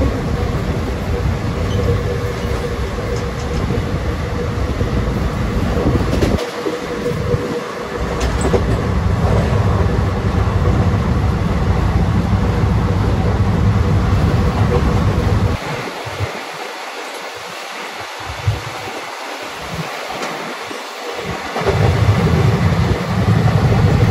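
Haldibari Superfast Express running on the rails as it pulls out of a station: a loud, steady low rumble from the carriages with a few sharp clicks from the track. The deep rumble drops away for about five seconds in the second half, then comes back.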